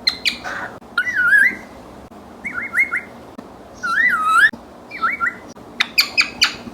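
African grey parrot whistling in short warbling phrases, some as quick rising notes and one longer wavering whistle in the middle, with a quick run of sharp clicking chirps near the end.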